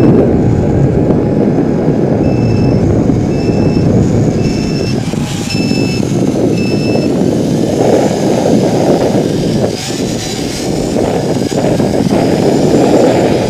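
Strong wind buffeting the microphone, a loud, dense rushing noise. For several seconds in the first half it is joined by a row of short, high electronic beeps, a little under two a second.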